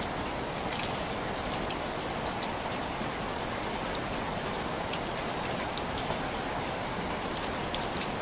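Steady rain on window glass: an even hiss of falling rain with scattered sharp ticks of single drops hitting the pane.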